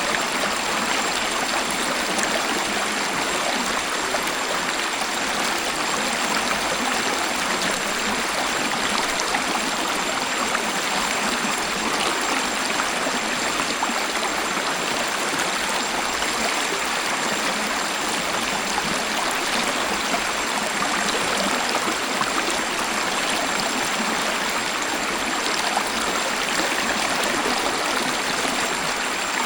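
Waterfall and flowing water rushing steadily, a continuous even splashing without pauses.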